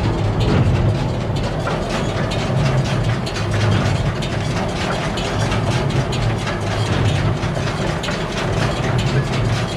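2001 New Holland BB940 large square baler running empty at low PTO speed behind the tractor: a steady mechanical clatter of chains and gears, with a low heavy pulse about once a second. It is running nice and smooth after servicing.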